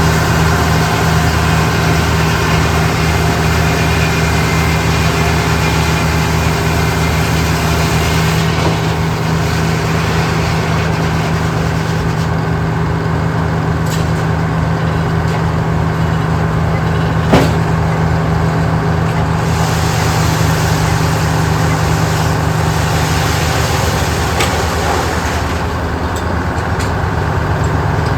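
A heavy engine running steadily, with a single sharp knock about 17 seconds in.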